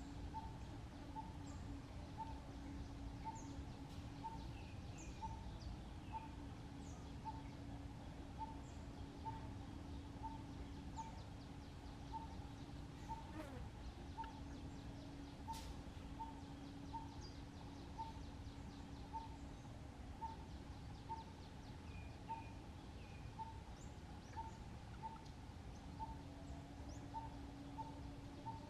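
Outdoor ambience: a steady low hum and rumble, over which a bird repeats one short note evenly, about three times every two seconds, with a few faint higher chirps. A single sharp click about halfway through.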